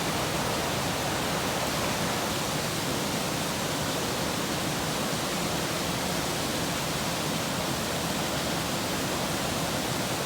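A waterfall: the steady rush of falling water.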